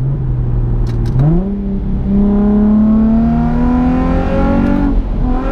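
Nissan 350Z's 3.5-litre V6 engine under acceleration: the revs jump sharply about a second in, climb steadily for about three seconds, then drop near the end as the automatic gearbox shifts up.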